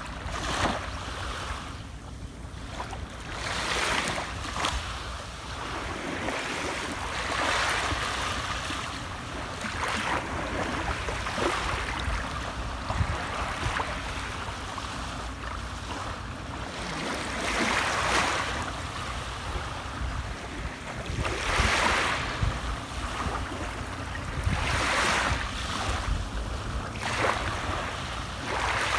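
Sea waves breaking and washing in, rising and falling in broad surges every few seconds.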